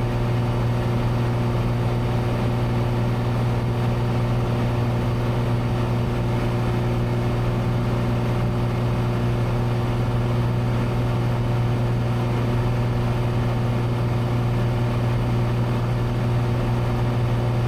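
Cessna 182's piston engine and propeller droning steadily in cruise, heard inside the cabin: one constant low hum with even overtones above it, unchanging throughout.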